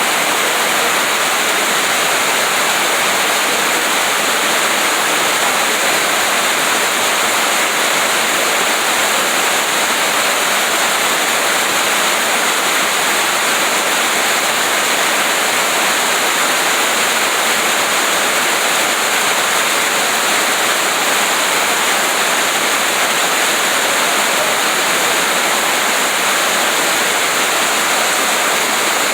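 Steady rain, a constant even hiss with no separate drops or thunder standing out.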